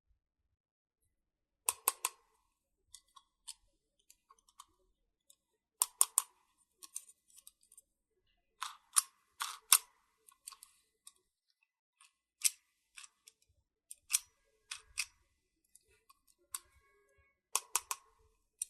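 Small plastic toy pieces clicking and tapping as they are handled and set down: sharp clicks, often two or three in quick succession, with near silence between them.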